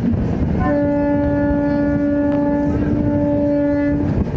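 Indian Railways locomotive horn sounding one long steady note of about three seconds, starting under a second in, over the constant rumble of the running train.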